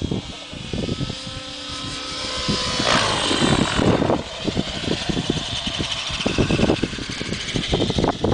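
Nitro RC helicopter (T-Rex 700) in flight: its engine whine and rotor-blade swish, swelling loudly about three seconds in as it swoops, with wind buffeting the microphone.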